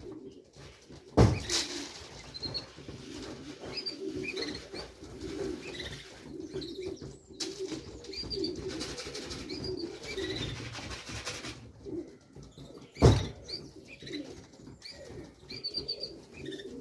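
Racing pigeons cooing continuously, with scattered high chirps. Two sharp knocks stand out above the cooing, one about a second in and another near the end.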